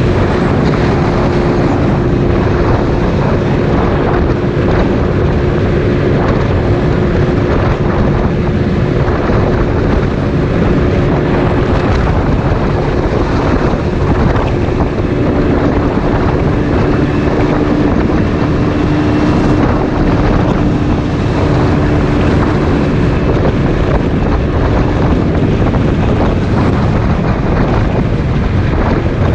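Motorcycle engine running at a steady speed while riding, mixed with loud wind noise on the microphone.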